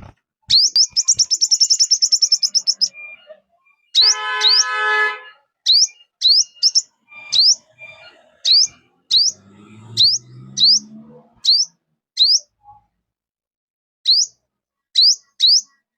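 Recorded calls of the five-colour bird (chim 5 màu), played as a lure for trapping forest birds: sharp high chirps repeated every half-second or so. Early on comes a fast run of about ten chirps a second. About four seconds in there is a harsher, buzzy lower call, and a low call around ten seconds. The chirps pause for about two seconds near the end.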